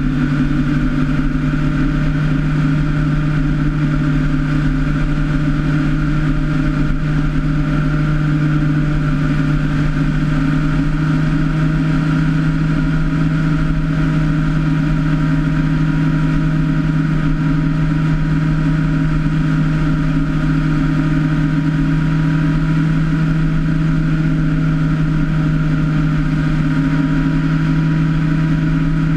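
Motorcycle engine cruising at steady revs: an even drone that keeps one pitch.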